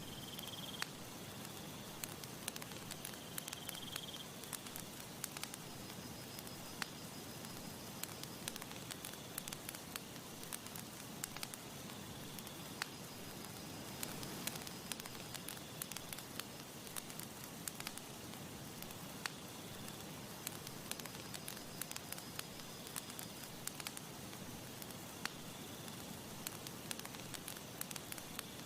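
Campfire crackling: a soft steady hiss with frequent sharp pops and snaps of burning wood.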